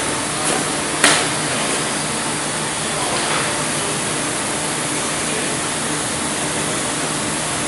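Corrugated cardboard printing machine running with a steady mechanical noise and a low hum, with one sharp knock about a second in.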